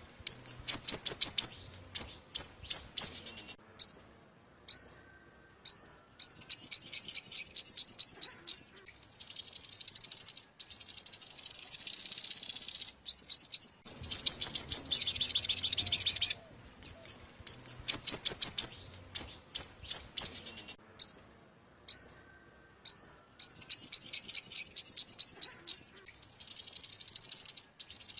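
Sunbird song: high, rapid trills of quickly repeated notes, each lasting a few seconds, alternating with short runs of separate sharp chirps and brief pauses.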